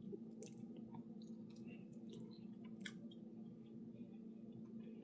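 Faint scattered clicks and small handling noises over a steady low hum.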